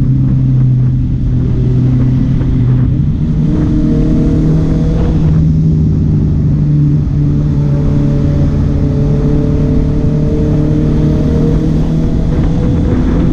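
Honda CB650R inline-four engine and exhaust running loud. The engine note steps up about three seconds in, then climbs slowly and steadily as it gains revs.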